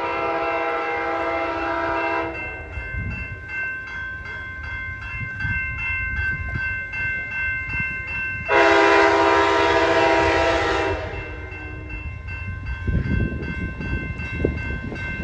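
Amtrak locomotive horn sounding two long blasts as the train approaches: the first ends about two seconds in, and a louder one runs from about halfway through for some two and a half seconds. The train's low rumble continues between the blasts and grows heavier near the end.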